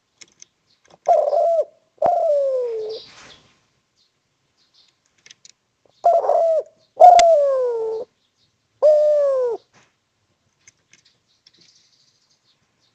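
Spotted dove (derkuku) cooing: two phrases of low, falling coos. The first has a short note and a longer one sliding down, about a second in; the second has three notes, starting about six seconds in.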